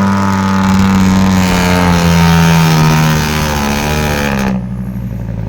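Dump truck diesel engine revving hard under heavy load on a slippery climb, its pitch sagging as it bogs down. About four and a half seconds in, the throttle is abruptly lifted: the truck has not made it up the slope.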